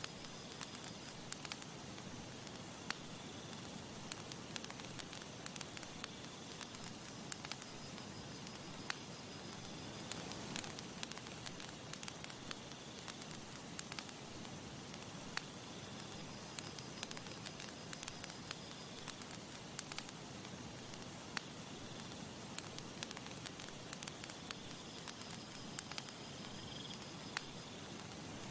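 Campfire crackling: frequent irregular pops and snaps of burning wood over a steady soft hiss. A faint high-pitched tone comes and goes in the background.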